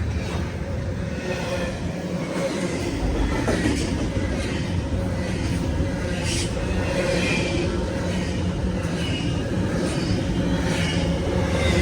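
CSX intermodal freight train passing, its diesel locomotive engines droning steadily with wheel and rail noise, growing slightly louder.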